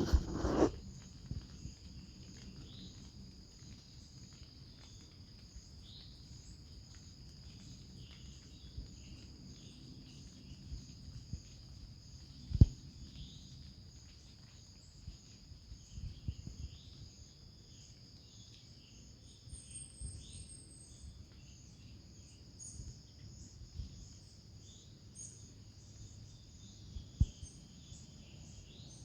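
Outdoor nature ambience: a steady high insect trill, typical of crickets, with scattered short bird chirps. Two sharp knocks break in, about halfway through and near the end, the first the loudest sound here.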